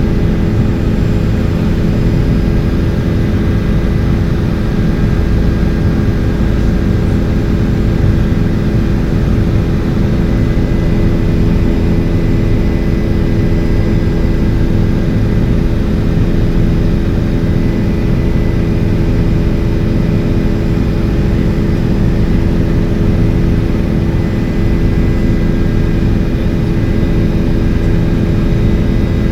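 Helicopter in flight heard from inside the cabin: a steady, loud engine and rotor drone with a deep rumble and several held tones, unchanging throughout.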